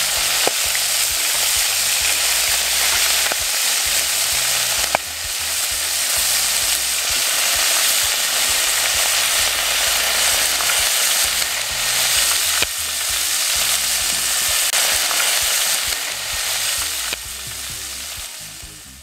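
Crayfish frying in a cast-iron pot over a wood fire: a steady, loud sizzle. A few sharp clicks come through as they are stirred. The sizzle fades out near the end.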